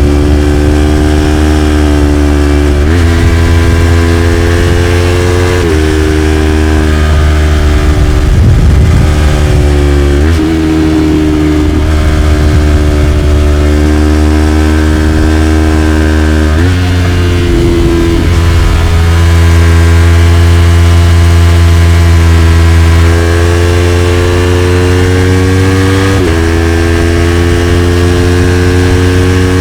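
Yamaha YZF-R3's 321 cc parallel-twin engine through an Arrow Pro-Race slip-on exhaust, running hard under way. The note drifts slowly and jumps suddenly in pitch about five times, as gears change.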